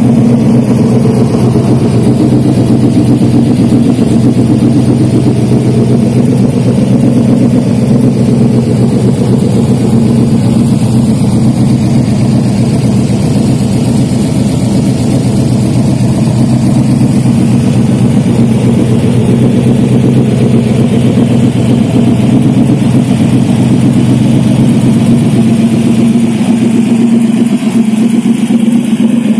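Shelby Cobra 427 S/C's 427 V8 idling steadily through its side-exit exhaust pipes, loud and even throughout.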